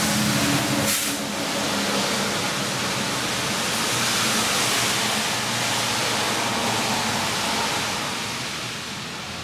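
1967 Chevy Camaro engine idling with air hissing into the open Holley carburetor as the engine warms and the newly fitted electric choke opens. There is a short click about a second in.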